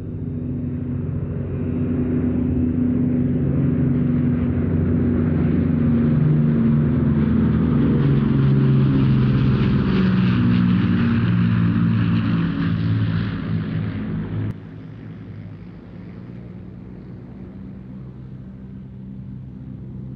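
Avro Lancaster's four Rolls-Royce Merlin piston engines droning in a display pass, growing louder over the first few seconds. About fourteen seconds in the level drops suddenly to a quieter, steady drone.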